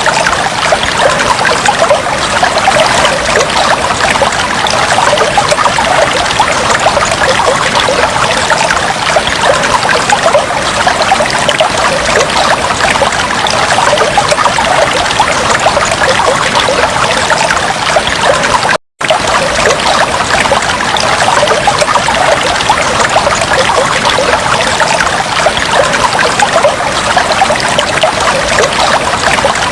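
Aquarium water steadily trickling and bubbling, a dense, even splashing. It drops out to silence for an instant about two-thirds of the way through.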